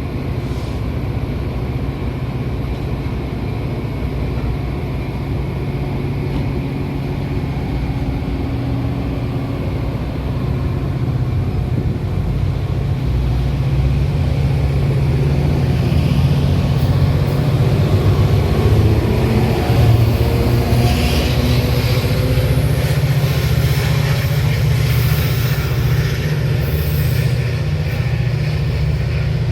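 Metra commuter train running, a steady low rumble that grows louder about ten seconds in, with faint rising and falling tones through the middle.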